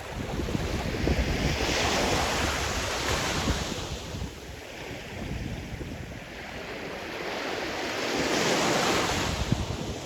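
Sea surf: waves breaking and washing up the shore in a continuous rush. Two surges swell and fade, the second about six seconds after the first.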